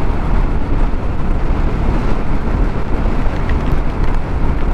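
Steady rush of wind and road noise from a TVS Scooty Zest ridden at speed, with a few faint taps of large raindrops hitting the helmet visor.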